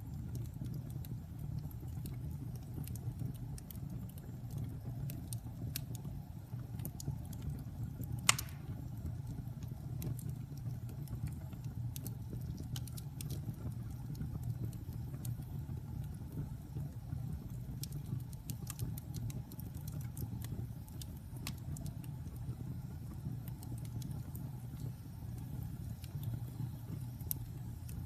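Wood fire burning in a fireplace: a steady low rumble with scattered crackles and one loud pop about eight seconds in.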